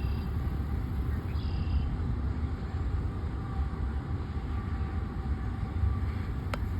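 Steady low rumble of a freight train, with two brief high-pitched squeals in the first two seconds and a sharp click near the end.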